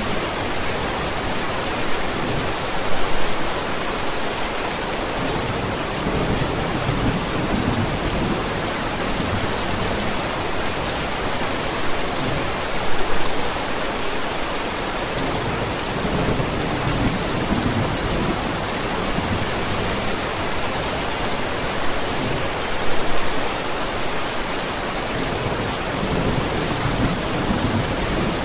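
Steady, heavy rain with low thunder rumbling under it, and brief louder swells about every ten seconds.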